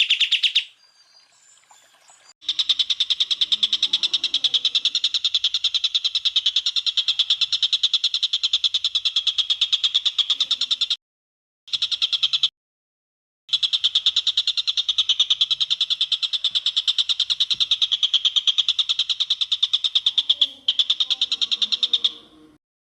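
Recorded green leafbird (cucak ijo) song: a high-pitched, very fast rattling trill of evenly repeated notes. It is held in long stretches and broken off abruptly twice near the middle and again near the end, as edits in a looped training track.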